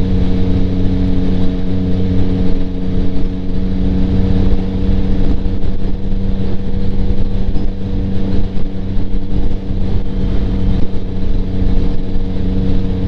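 2025 Yamaha MT-09's 890cc inline-three with an aftermarket Kelpi Flanker exhaust (baffle in), running at steady revs while cruising, its engine note holding one pitch. Heard from inside the rider's helmet, mixed with steady wind and road noise.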